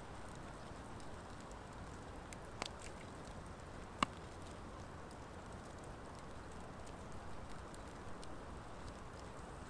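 Wood fire of driftwood and split hardwood logs burning in a fire pit: a steady low hiss with a few sharp crackling pops, two close together a little over two seconds in and the loudest one about four seconds in.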